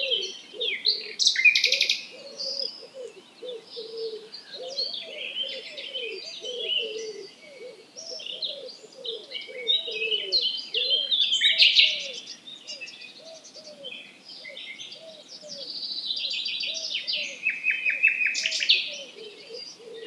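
Early-morning chorus of several songbirds singing at once: overlapping high chirps, whistles and rattling trills. Underneath, a lower short note repeats a couple of times a second.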